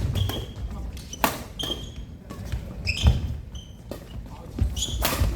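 Badminton rally: a racket strikes the shuttlecock three times, about two seconds apart, the last near the end. Between the strikes, short high squeaks of court shoes and thuds of footsteps echo in a hall.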